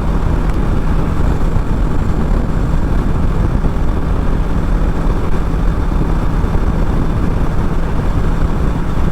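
Motorcycle riding along at a steady speed: wind and road noise on the rider's mic with the engine's steady hum underneath.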